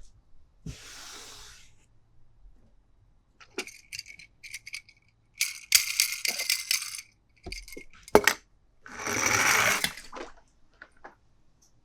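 Toys and their plastic packaging being handled. There are soft rustles, scattered clicks, and a dense rattling clatter of small hard pieces for about a second and a half around the middle, then a louder rustle about nine seconds in.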